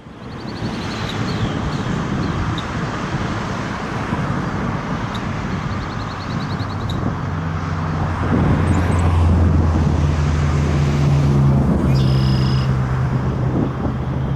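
Steady outdoor rumble of traffic and engines, growing louder about halfway through as a low steady engine hum builds. Rows of rapid faint ticking come twice in the first half.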